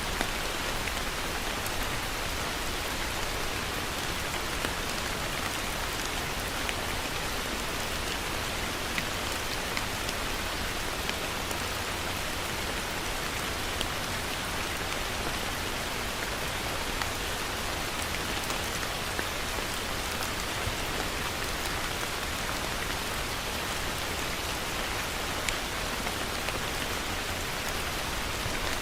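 Heavy rain falling steadily, a dense even hiss with occasional distinct drop ticks.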